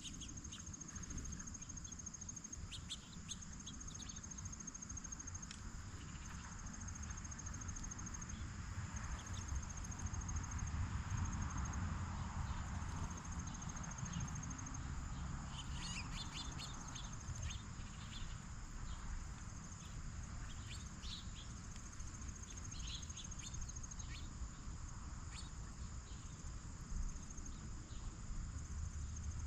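Crickets chirping in a steady high, pulsing trill, with a few short bird chirps scattered through and a low rumble underneath.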